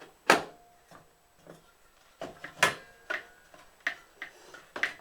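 Hard metal parts knocking and clinking together as magnetrons are slotted into a heat gun's metal tube. There is a sharp clack about a third of a second in, then a run of lighter knocks, some leaving a brief metallic ring.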